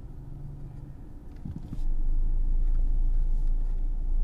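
A steady low rumble that turns much louder and deeper about two seconds in, then holds level.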